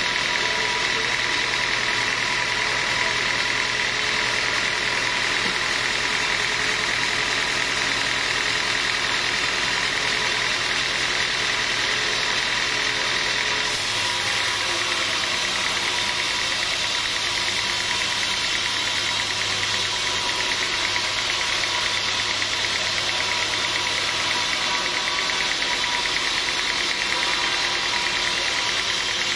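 Sawmill machinery running steadily with an engine-like hum and a hiss, its tone shifting slightly about halfway through.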